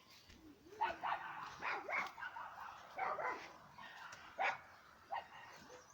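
A dog barking, with short yips spread over a few seconds, about six in all.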